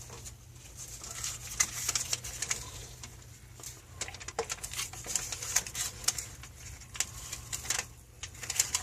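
Irregular clicks, taps and scrapes of hand tools and metal pipe fittings being handled during plumbing work, over a steady low hum.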